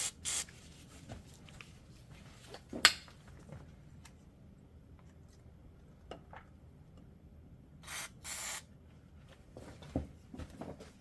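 Short hisses of a WD-40 aerosol can spraying penetrating oil onto the hub bearing bolts: a burst at the start and two more about eight seconds in. A single sharp knock comes about three seconds in.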